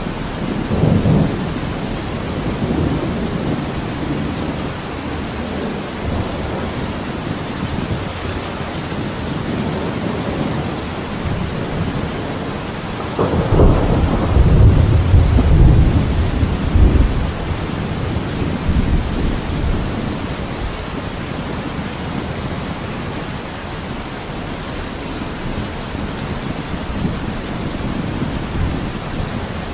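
Thunderstorm: steady heavy rain with rolling thunder, a short rumble about a second in and a louder, longer deep rumble about halfway through.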